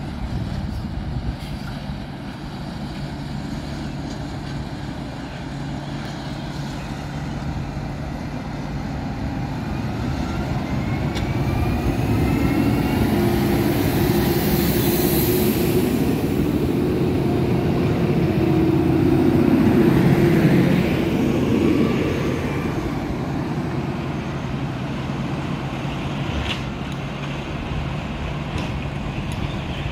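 SNCF Regiolis regional multiple unit pulling out of a station. A steady low hum is joined by a running note that glides in pitch as the train gathers speed. The sound is loudest as it passes, about twenty seconds in, then eases off as it draws away.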